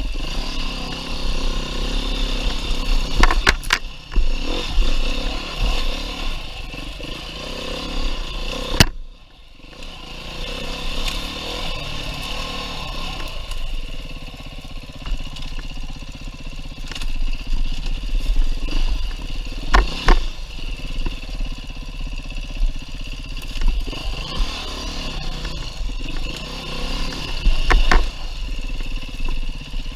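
Beta 390 RR-S single-cylinder four-stroke enduro motorcycle engine running and revving on rough single track, with a few sharp knocks. The sound drops away sharply about nine seconds in, then the engine comes back up.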